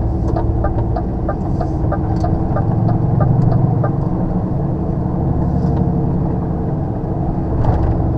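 Inside a lorry cab: the diesel engine runs with a steady low rumble while the turn indicator ticks about three times a second, then stops about halfway through.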